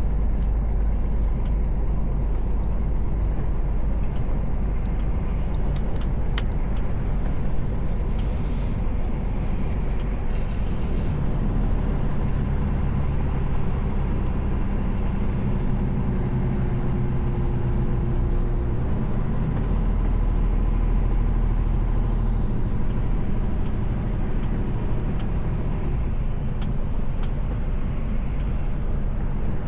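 Mercedes Actros L truck driving along, its diesel engine running steadily under a low road rumble, the engine note shifting a couple of times. A brief hiss comes about nine seconds in.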